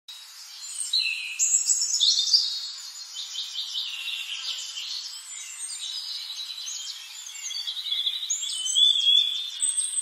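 Songbirds chirping and trilling in a dense, continuous high twitter that starts about a second in.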